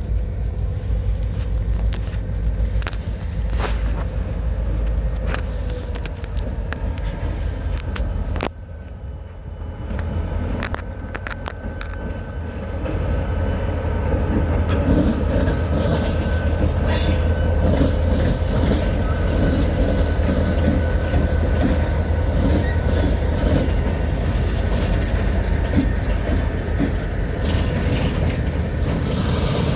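Railroad cars rolling through a railyard: a steady low rumble with wheels clicking over rail joints and some faint wheel squeal, growing louder about halfway through.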